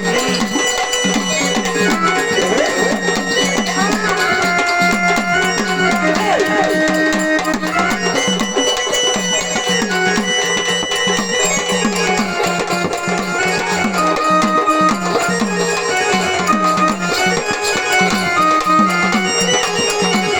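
Gavlan, a Marathi folk devotional song, performed with a drum keeping a running beat under steady held melody notes.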